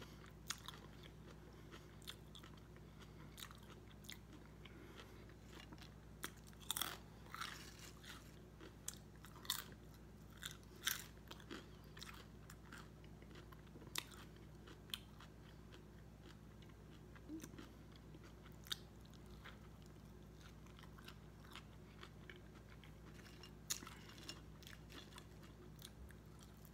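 Close-up eating sounds: a sandwich and potato chips being bitten and chewed, with scattered sharp crunches and mouth clicks, a few louder crunches coming in a cluster partway through.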